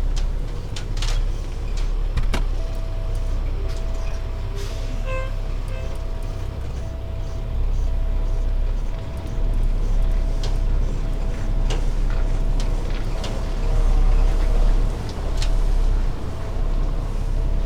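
Semi truck's diesel engine running with a low, steady rumble. A single-pitched beep starts a couple of seconds in and repeats a little more than once a second, with scattered clicks and knocks.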